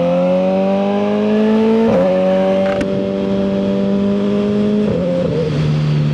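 Suzuki GSX-R1000R's inline-four engine, fitted with a CS Racing full exhaust, pulling under acceleration. Its pitch climbs, then drops at upshifts about two seconds in and again about five seconds in.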